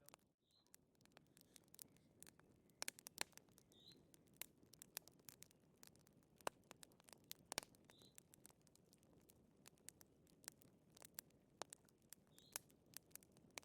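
Wood fire crackling: irregular sharp pops and snaps, some in quick clusters, over a faint low hiss.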